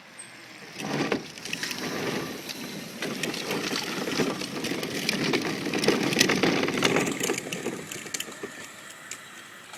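Razor electric motorcycle rolling past, its tyres making a gritty crunching on the street surface. The sound starts about a second in, builds to its loudest about two-thirds of the way through, then fades.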